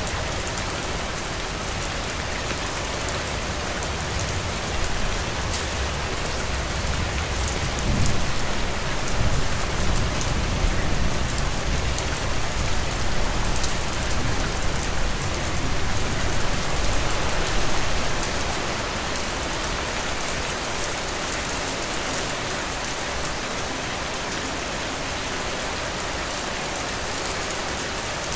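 Heavy rain falling steadily on a roof, an even hiss of many drops. From about four seconds in, a low rumble swells under it, loudest about eight seconds in, and fades out after a further ten seconds or so.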